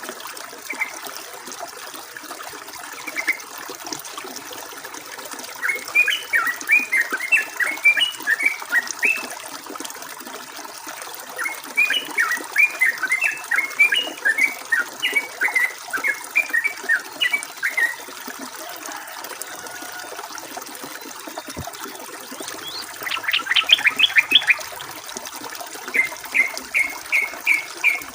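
Yellow-vented bulbul singing in bursts of quick, chattering phrases, with a fast run of notes a little before the end and a string of evenly spaced repeated notes near the end. Steady running water trickles underneath.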